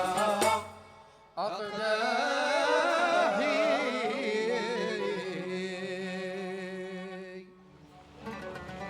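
A single voice sings one long, highly ornamented phrase in a Middle Eastern style, its pitch wavering and sliding. The voice comes in after a short pause and tapers off. Plucked-string music begins near the end.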